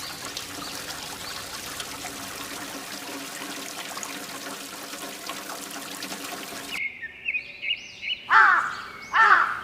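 Water pouring and trickling steadily, the outflow of a mini water pump, under a faint steady hum. About seven seconds in it cuts off abruptly and loud whistling chirps take over, each rising and falling in pitch.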